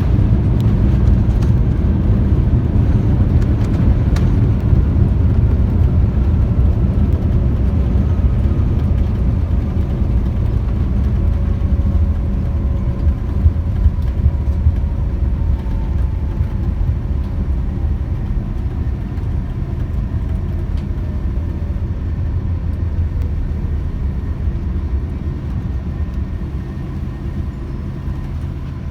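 Cabin noise of a Boeing 787-9 on its landing roll: a loud, deep rumble that slowly fades as the aircraft slows, with a faint whine gliding down in pitch as it decelerates.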